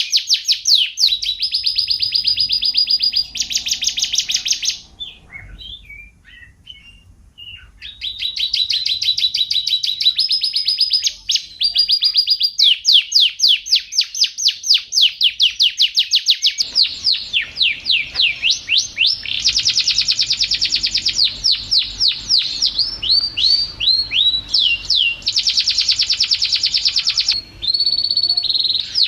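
Domestic canary singing a long song of rapid trills and runs of repeated sweeping notes, switching phrases every second or two. A softer stretch of scattered chirps comes about five seconds in.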